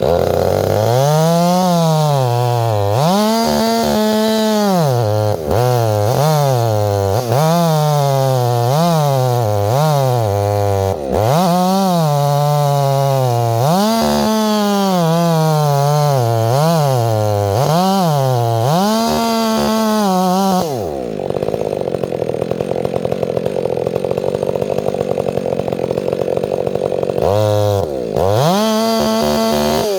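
Chainsaw cutting into a tree, the engine revving hard with its pitch repeatedly sagging and climbing as the chain bites and frees in the cut. It drops to a steadier idle for about six seconds, then revs up again near the end.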